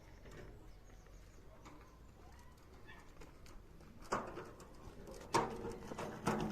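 Farm animal sounds: faint and quiet at first, then several sudden, louder noises from about four seconds in.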